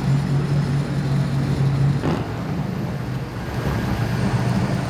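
A car engine running at low speed, a steady low drone that drops in pitch about two seconds in.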